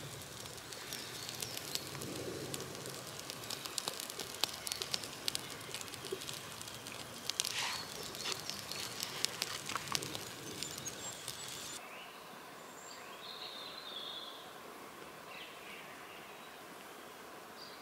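Light crackling and rustling of twigs and kindling, with many small sharp clicks. About two-thirds of the way through it stops abruptly, leaving quiet forest ambience with a faint, brief bird chirp.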